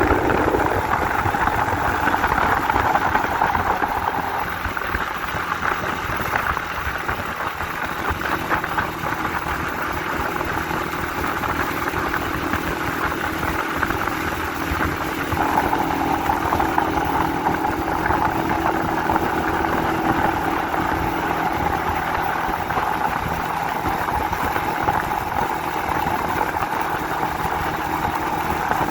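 Honda 125 CDI motorcycle's single-cylinder four-stroke engine running steadily on the move, its note shifting about halfway through.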